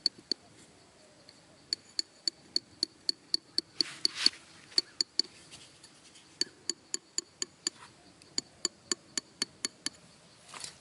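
A tool striking something hard over and over at about four strikes a second, each strike sharp with a short ring. The strikes come in runs with brief pauses, and there is a short scraping rustle about four seconds in.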